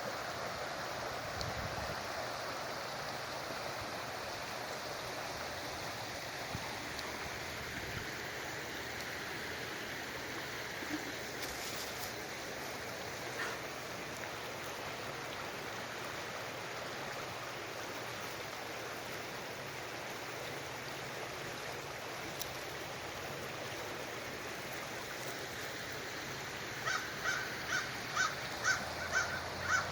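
River water rushing in a steady hiss. Near the end a bird breaks in with a quick series of harsh, crow-like calls, about three a second.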